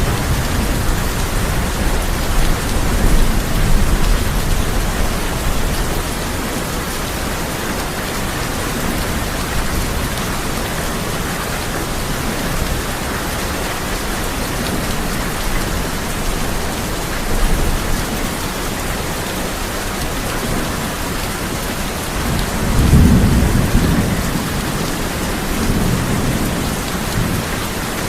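Heavy rain drumming steadily on a tin roof, with low rolls of thunder rumbling in the first few seconds and again more strongly about 23 seconds in.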